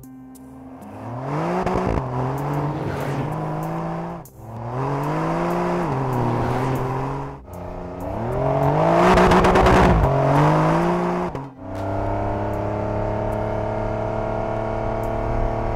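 Porsche 911 Dakar's 4.0-litre flat-six accelerating hard three times in quick succession, each run rising in pitch and then dropping as it upshifts, the sound cutting off abruptly between runs. The third run is the loudest, with a rush of noise over the engine note, and about 11 seconds in it settles into a steady, slowly rising tone.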